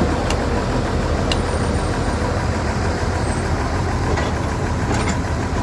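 Heavy diesel engine of piling machinery running steadily, with a few faint sharp clinks.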